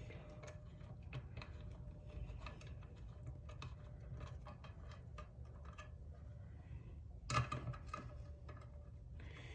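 Faint, scattered light metallic clicks and ticks as 10 mm bolts are hand-threaded and snugged into a cover on a 4L60E transmission, with a short cluster of louder clicks about seven seconds in.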